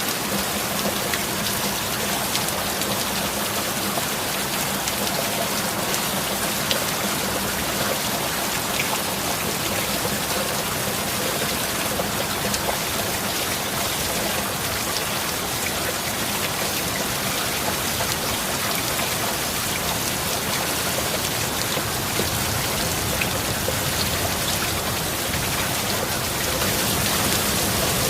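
Steady rain falling, with scattered individual drops ticking through the wash, over a faint low steady tone. The rain grows a little louder near the end.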